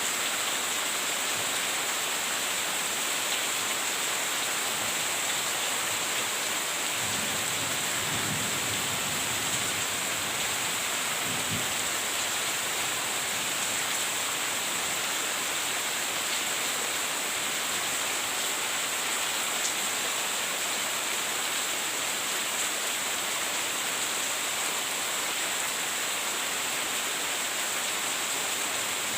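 Steady heavy rain, an even unbroken hiss, with a faint low rumble about seven to twelve seconds in.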